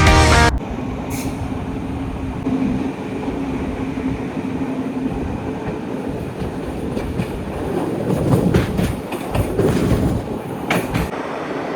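A train running on the rails: a steady rumble with a low hum, broken by scattered clicks and rattles that grow busier near the end. Music cuts off about half a second in.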